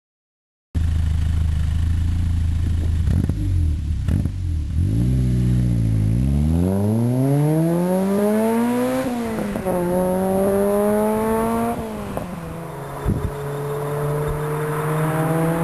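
Lotus Exige engine through a QuickSilver stainless sports exhaust, running low at first and then accelerating hard. The revs climb steeply, drop at an upshift, climb again, and drop at a second upshift before building once more.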